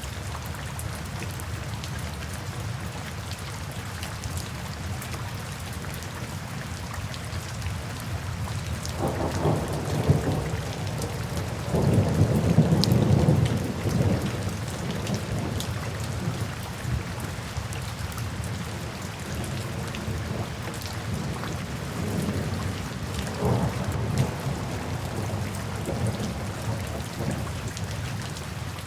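Steady rain with rolling thunder. A low rumble builds about nine seconds in and is loudest a few seconds later, then fainter rumbles come near the end.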